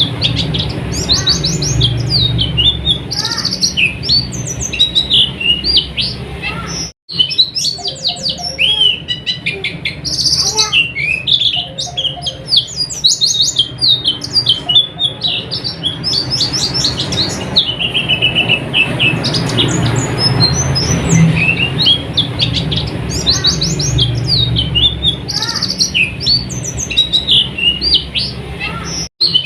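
White-eye (pleci) singing a fast, unbroken chatter of high chirps and trills, over a low hum. The sound cuts out for an instant about seven seconds in and again near the end.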